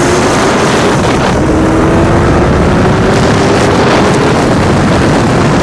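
Modified Ford Mustang Cobra V8s running at full throttle in a street race, engine pitch climbing slowly and steadily, loud throughout.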